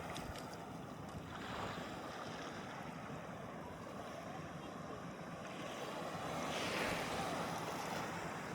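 Small sea waves washing in the shallows, with one wash swelling up about six and a half seconds in, and wind rumbling on the microphone.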